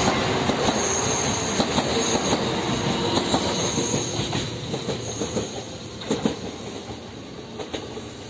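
Meitetsu electric train running past and away along the track, its wheels clicking over rail joints and points, with a few brief high wheel squeals. It fades steadily as the train recedes.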